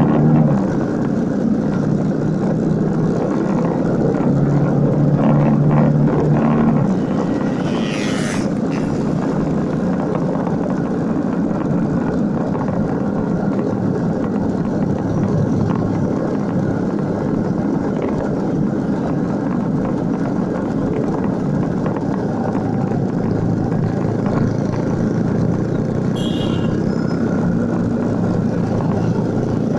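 Motorcycle engine running while riding, with wind noise on the microphone. The engine is louder for the first several seconds, then settles to a steady drone, with two brief sharp sounds about eight seconds in and near the end.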